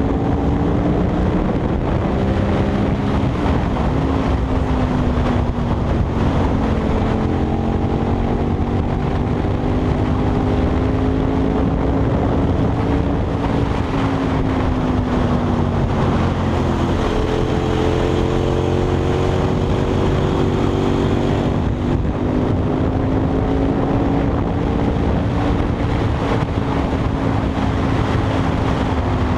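KTM 990 SMR's V-twin engine running under way at fairly steady revs, its pitch easing down and rising again several times as the throttle is rolled off and back on, with wind rushing over the microphone.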